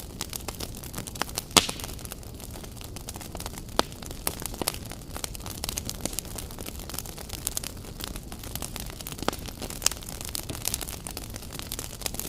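Wood campfire crackling: a steady hiss with irregular sharp pops and snaps, a louder pop about one and a half seconds in.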